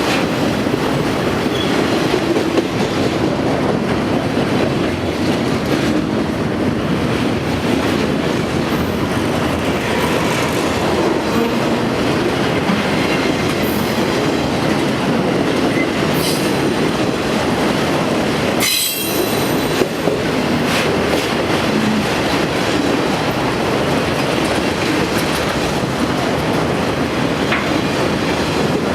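A train rolling past close by on the main line: a steady, loud rumble of wheels clattering over the rails, with a few brief high wheel screeches in the middle.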